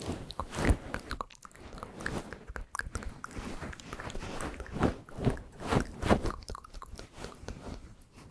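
ASMR mouth sounds close to the microphone: a quick, irregular run of wet clicks and smacks.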